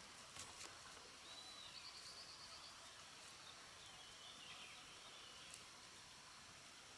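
Quiet outdoor ambience: a steady high hiss with a few faint bird chirps, among them a short trill about two seconds in, and a few light clicks near the start and one later.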